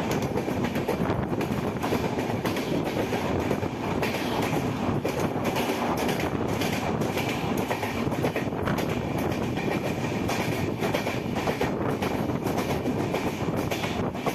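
Passenger train running along the track: a steady rumble and rattle of the coaches, with continual clattering of the wheels over the rails.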